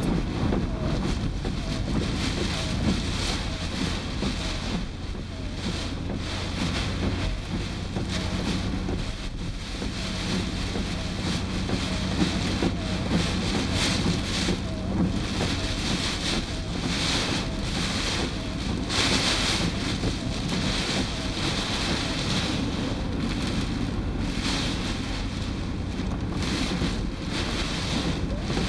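Typhoon wind and driving rain, gusting hard against the microphone: a constant low rumble with surges of hiss that swell and fade every few seconds.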